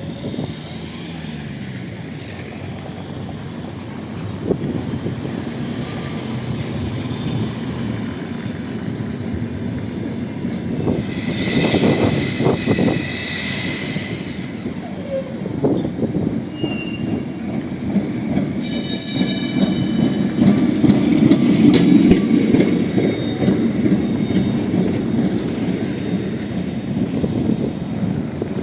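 A city tram running on street rails with a steady low rumble that grows louder in the second half. Its steel wheels squeal twice, briefly: once about halfway through and more shrilly a few seconds later.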